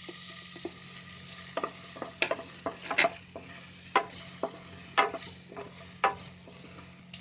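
Chopped dates frying in ghee in a non-stick pan with a steady, soft sizzle, while a wooden spatula stirs them and knocks against the pan about once a second.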